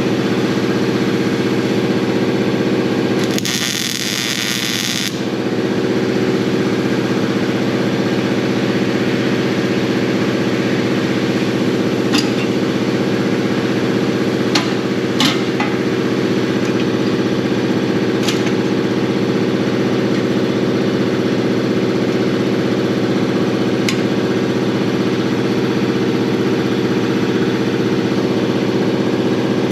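Steady machine hum with a few sharp clicks, and a short burst of hiss a few seconds in.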